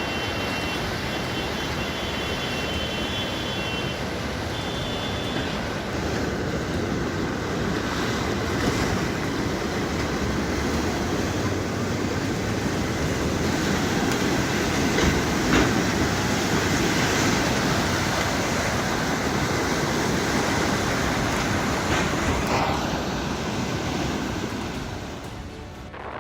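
Floodwater rushing: a loud, steady rush of water noise, with a couple of brief knocks in the middle.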